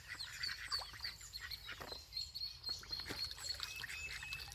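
Many ducklings peeping: short, high chirps, several a second and overlapping.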